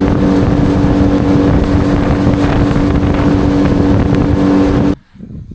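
Boat's outboard motor running at steady high revs with the boat underway, wind rushing over the microphone. Starts and stops abruptly, cutting off about five seconds in.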